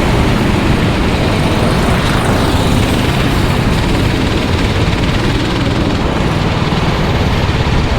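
Racing kart engine running steadily, a loud, even mechanical drone.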